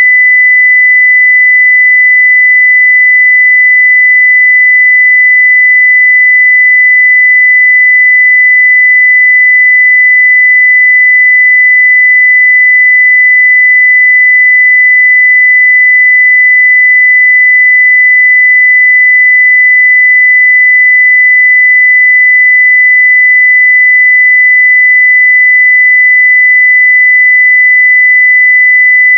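A steady 2 kHz sine-wave test tone at full level, a single unbroken pure pitch.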